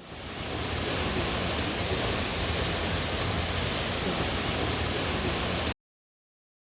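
Waterfall rushing, a steady full roar of falling water that fades in over the first second and cuts off abruptly to silence near the end.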